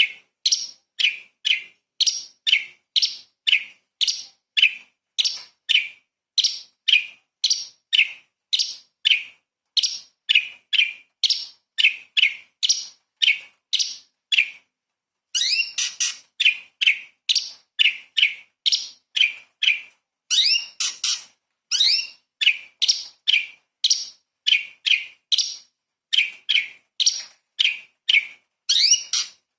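Orange-bellied leafbird (cucak cungkok) singing a rapid run of short, sharp, piercing notes, about two a second, each dropping in pitch. Now and then it slips in a few quick upward-sweeping notes.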